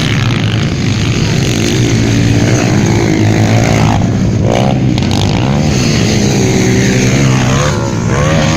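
150cc motocross bikes racing, engines running hard with their pitch sweeping up and down as the riders work the throttle, most clearly about four and eight seconds in.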